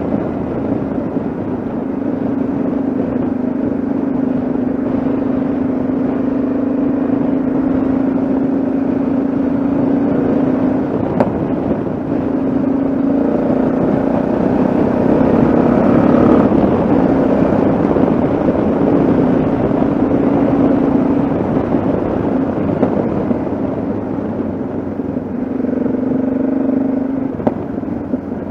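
Yamaha XT660Z Ténéré's single-cylinder engine running under way at a steady speed, over wind and road noise. The engine note holds level, with a few brief changes in pitch along the way.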